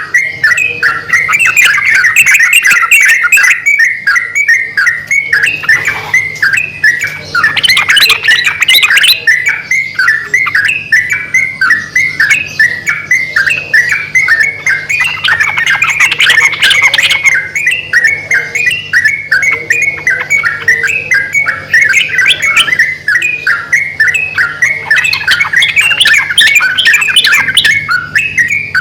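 A pair of yellow-vented bulbuls, male and female, answering each other in a continuous run of rapid, bubbly chattering notes. A faint steady low hum runs underneath.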